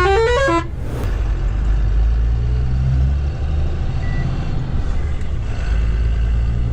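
Tata Signa 4225 truck's diesel engine running steadily as the truck drives, a low drone heard from inside the cab. In the first half-second a short run of electronic beeps climbs quickly in pitch.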